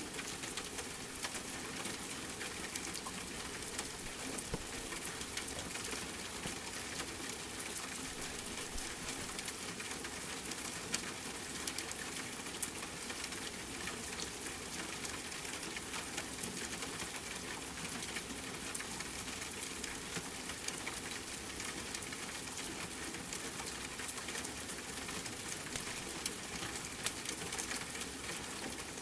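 Steady rain mixed with a crackling wood fire, with occasional sharper pops from the fire, a few of them louder near the middle and near the end.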